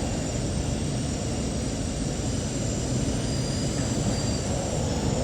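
Rotem K-Train electric multiple unit running, heard from inside the passenger car: a steady rumble of wheels and running gear with faint high-pitched tones above it.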